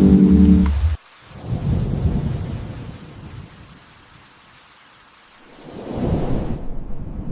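Sustained music tones stop abruptly about a second in. Then rain falls with two low rolls of thunder, one swelling and fading soon after the music stops and another building near the end.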